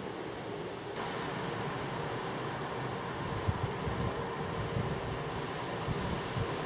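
Steady rumble of a diesel train running, with irregular low thumps of wind buffeting the microphone in the second half.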